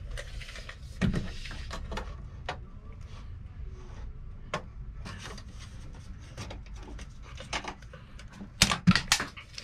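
Wooden boards being handled: scattered knocks and scraping of wood on wood. A quick run of sharp knocks comes near the end.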